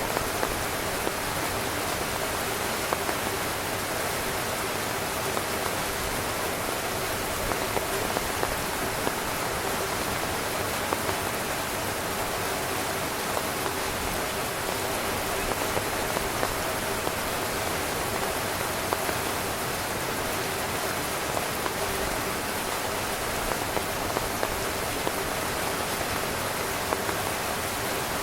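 Steady rain falling on a tent, a dense even hiss with frequent individual drops standing out briefly.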